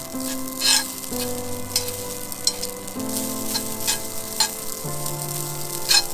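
Food frying and sizzling in a pan, with irregular sharp crackles and pops, over background music of held chords.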